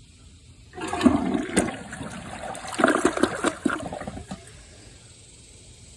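Project Source Pro Flush dual-flush toilet doing its small (partial) flush: water rushes from the tank into the bowl starting about a second in, surges twice, and stops after about three and a half seconds.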